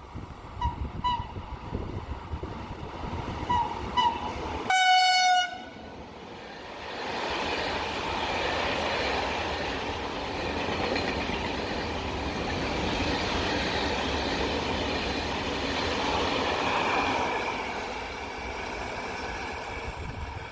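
Train horn giving a few short toots, then one loud blast about five seconds in. A train then passes with a steady rumble and rail noise for about ten seconds before fading.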